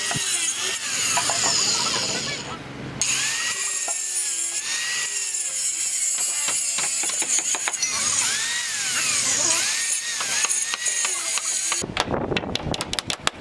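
Handheld electric saw cutting through wooden roof boards, its motor whine rising and falling as the blade bites in and eases off, trimming away the excess board ends. Near the end the sound changes to a rapid run of sharp knocks.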